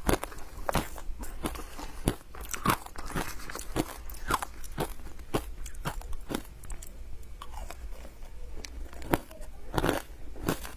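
Close-up crunching of ice being bitten and chewed, an irregular run of sharp crunches several times a second.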